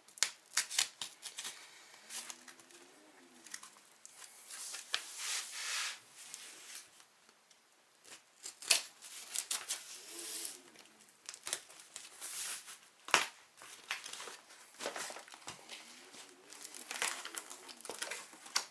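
Shipping packaging being unwrapped and torn open: crinkling and tearing of wrapping and cardboard with scattered sharp clicks and rustles, and three brief squeaks along the way.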